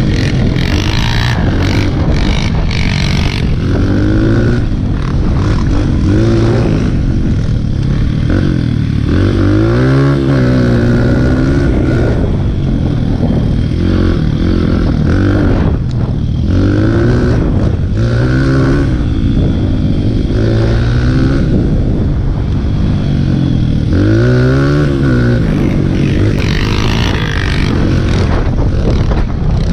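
Dirt bike engine running under load, its pitch rising and falling repeatedly as the throttle is opened and closed, over a constant rushing noise.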